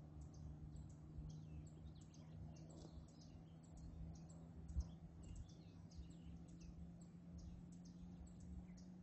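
Faint chirping of small birds, many short high calls overlapping throughout, over irregular low thumps with one sharper knock about five seconds in.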